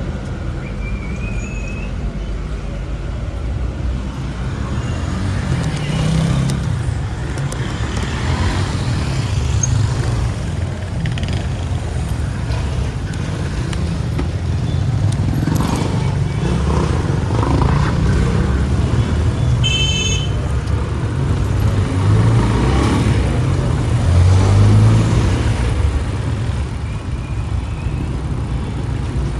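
City street traffic heard from a moving motorbike: a steady low engine and road rumble with passing vehicles, and a brief high-pitched tone about twenty seconds in.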